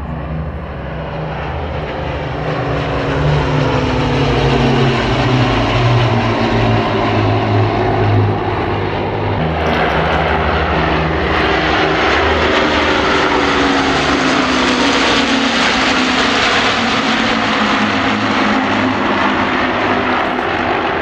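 Four-engined Avro Lancaster bomber's Rolls-Royce Merlin piston engines and propellers droning loudly in a flypast. The engine note slides down in pitch as it passes, twice, and grows louder over the first few seconds.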